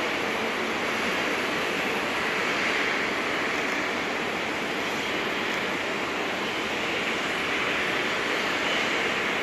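Steady rushing noise of a jet airliner's engines running, with no change in level.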